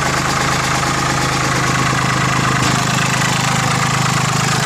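Mitsubishi MT205 compact tractor's 3-cylinder diesel engine idling steadily, sounding healthy.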